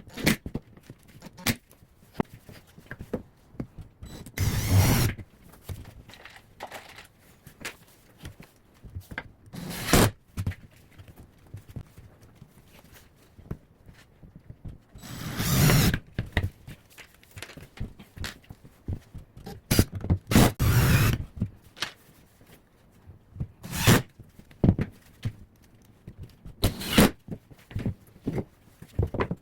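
Irregular wooden thunks and knocks separated by quiet gaps, with several longer scraping or rushing sounds of about a second each.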